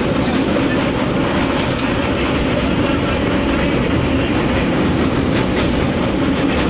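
Himgiri Express passenger train running at speed with a steady, loud rumble of wheels on rail and a clickety-clack of wheels over rail joints.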